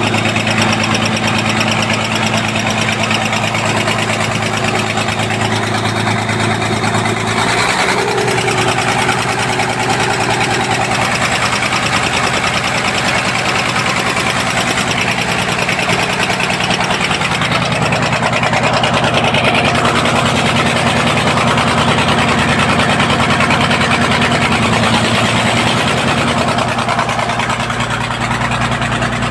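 Deutz diesel engine running steadily, its speed shifting about eight seconds in and again later on.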